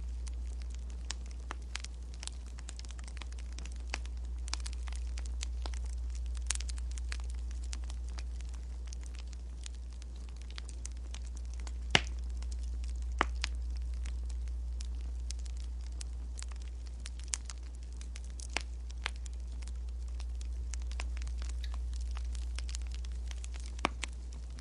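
Wood fire crackling, with irregular sharp pops and snaps, the loudest about halfway through, over a steady low hum.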